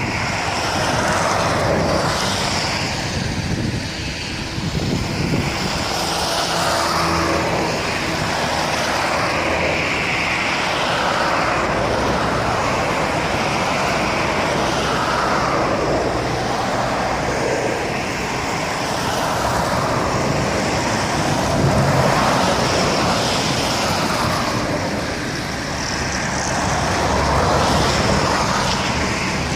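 Passenger train arriving, a steady rumble of rolling stock that swells slightly twice near the end.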